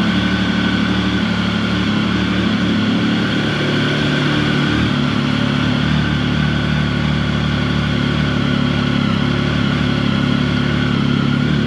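Triumph Tiger 1050's inline three-cylinder engine idling steadily while it warms up after a cold start, with the temperature gauge still only one bar up.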